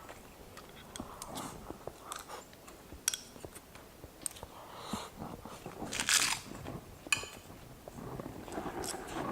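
A person chewing and crunching food, with several sharp clicks and a louder crunchy burst about six seconds in.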